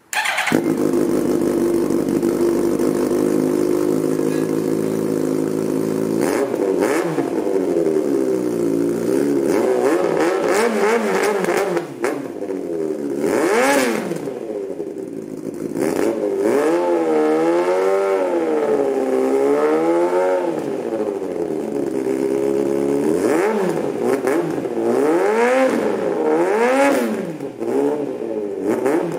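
Yamaha YZF-R1 inline-four sportbike engine through an aftermarket slip-on exhaust, idling steadily for about six seconds, then blipped through a series of revs that rise and fall again and again.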